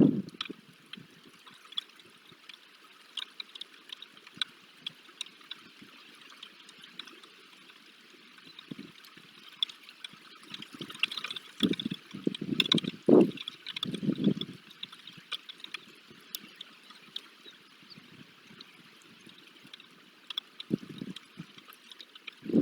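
Freezing rain ticking and pattering in many small, irregular drops, with a few louder low rumbles midway and again near the end.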